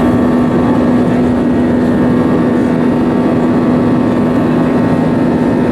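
Airbus A320 jet engines heard from inside the passenger cabin: a loud, steady engine noise with a constant hum running through it.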